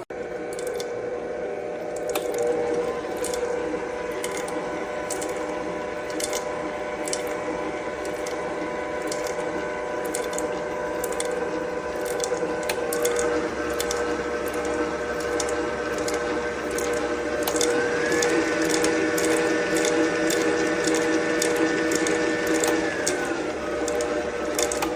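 COOKLEE 660 W electric stand mixer running as it creams butter, eggs and sugar, with a steady motor whine and repeated clicking from the beater and bowl. The motor pitch steps up about halfway through and again a few seconds later, then drops back down near the end as the speed is changed.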